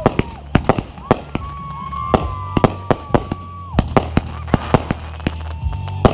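Fireworks display: rapid sharp bangs and crackles, several a second, mixed with long high whistles that hold steady for a second or so and then cut off.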